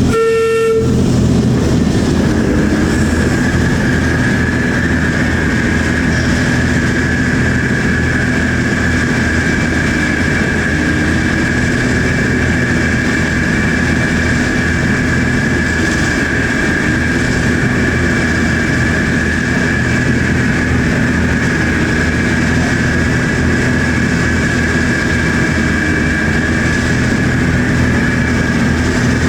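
Heritage diesel locomotive running steadily, a low engine hum with a constant high whine over it. A short horn note sounds right at the start.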